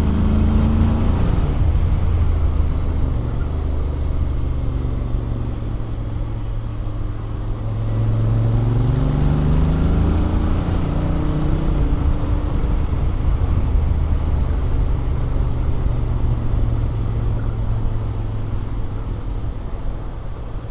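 Honda X-ADV 750 parallel-twin engine running on the road, on its stock exhaust with an Akrapovic manifold. The engine pitch drops in the first second or so, then rises steadily from about eight to ten seconds in as the scooter accelerates, and holds there.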